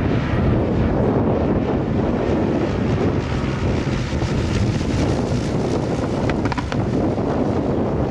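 Aircraft engine noise, steady, with heavy wind noise on the microphone.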